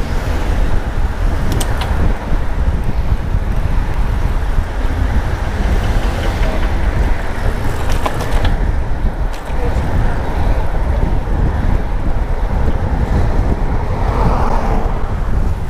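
Wind buffeting the microphone of a camera on a moving bicycle: a steady low rumble, with road traffic noise underneath and a few faint clicks.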